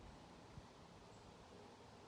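Near silence: room tone, with a faint soft knock about half a second in.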